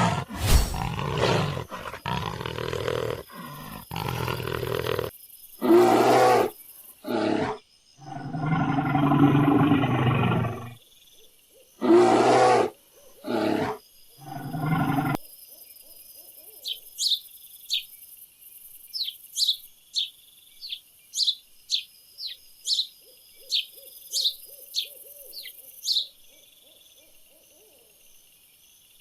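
A run of loud animal calls, repeated one after another with short gaps, for about the first half. Then, after an abrupt stop, a string of short, high bird chirps with a faint background hiss.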